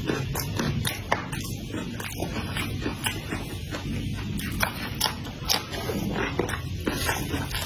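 A person chewing and biting food, with irregular sharp mouth clicks.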